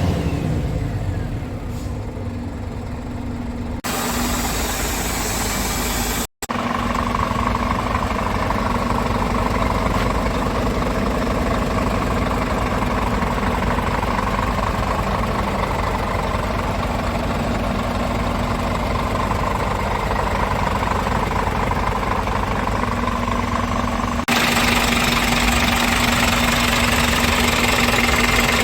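A Scania P410 truck's inline-six diesel engine idles steadily. The sound changes abruptly about 4 and 24 seconds in, and drops out briefly about 6 seconds in.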